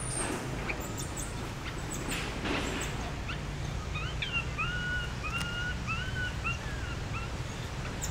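Outdoor ambience with a steady low rumble. About halfway through, a bird gives a run of about eight short whistled chirps, some flat and some with a quick up-and-down hook.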